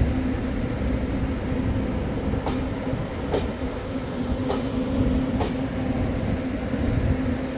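Taiwan Railways train running at a station: a steady low rumble and hum, with sharp clicks about once a second.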